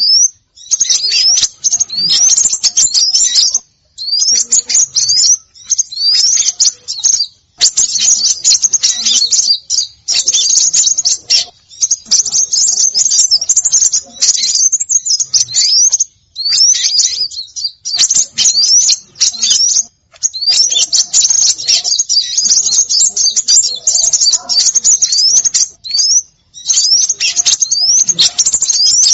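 Bird-lure recording of small songbirds calling in a noisy chorus: dense high-pitched chirps and quick rising whistles, in bursts a few seconds long broken by short pauses.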